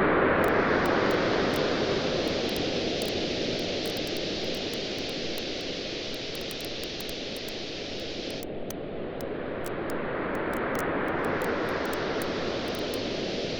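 Waves on a beach surging in and washing back, loudest at the start, easing off and building again after about ten seconds, with the small sharp pops of a crackling campfire over them.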